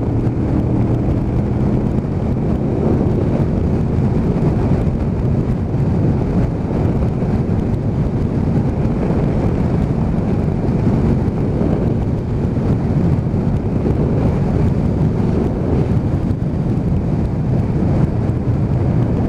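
Motorcycle riding at a steady speed: the engine drones under heavy wind noise on the microphone.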